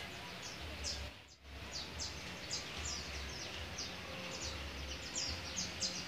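Small birds chirping: many short, high-pitched, downward chirps coming several a second, over a faint low hum.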